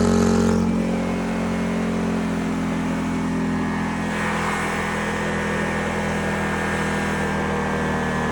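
Lawnmower engine running hard on a home-built mower, louder for just under a second and then holding a steady note.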